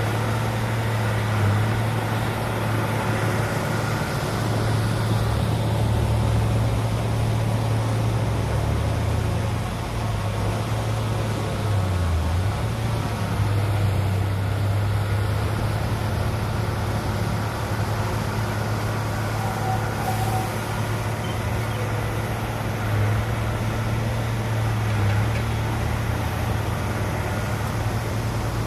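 Diesel engine of heavy earthmoving machinery running steadily: a continuous low engine hum with mechanical rumble and slight wavers in pitch.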